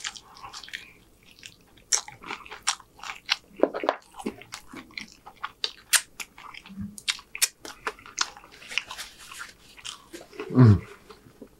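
Close-up chewing and crunching of a bite of chicken, with many short, sharp crunches and wet mouth clicks. Near the end comes a short hummed 'mm' that falls in pitch.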